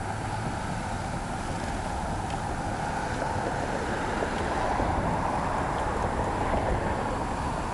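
Steady wind rush over the microphone of a moving bicycle, with the rolling rumble of the ride beneath it, rising a little about two thirds of the way through.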